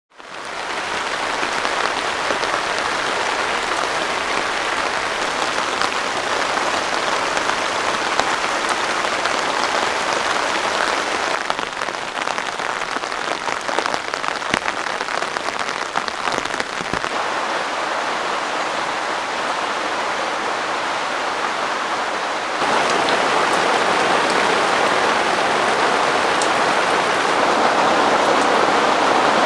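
Heavy rain pouring steadily, with scattered sharp drop strikes. It fades in at the start and shifts abruptly twice, growing louder for the last few seconds.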